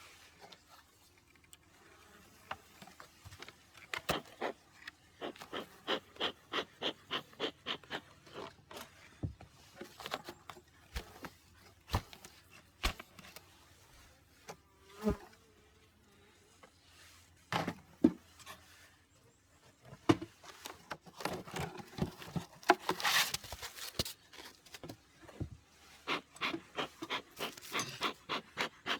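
Honeybees buzzing from a hive being opened for its first spring inspection, amid repeated knocks, clicks and scrapes of hive parts and frames being handled, with a run of quick regular clicks in the first third.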